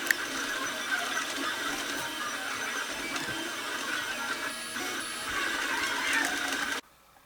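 A budget FDM 3D printer printing, its stepper motors whining in shifting tones as the head moves. The sound cuts off abruptly near the end.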